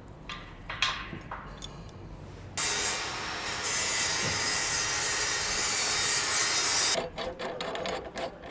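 A few handling clicks and scrapes, then a steady, even rasping noise from a cutting tool. It starts abruptly about two and a half seconds in and stops suddenly about four seconds later.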